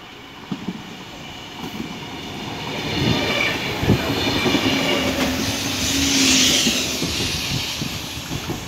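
Electric passenger train passing close along a station platform: the rumble builds, peaks as the cars go by with wheels clacking over rail joints, then fades as it runs on.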